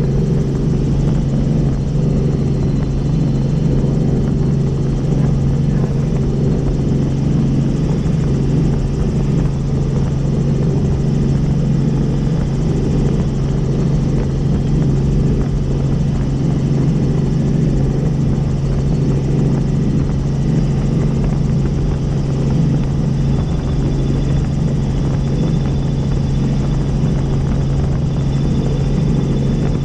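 Helicopter in flight: the steady drone of its engine and rotor, with a strong, even low hum.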